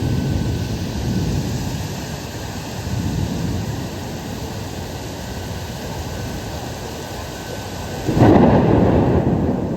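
Thunder rumbling during a rainstorm, with rain noise underneath. About eight seconds in, a louder thunderclap breaks in suddenly, then dies away into rumble.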